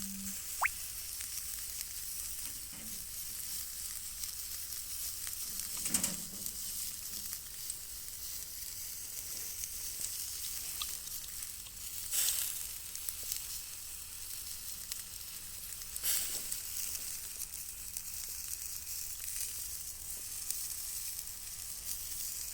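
Sausages sizzling steadily on a grill over hot charcoal, with a few louder crackles or pops now and then.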